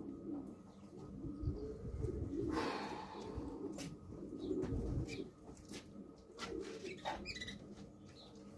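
Racing pigeons cooing, low and wavering. A brief rush of noise comes about two and a half seconds in, and a few sharp clicks follow in the second half.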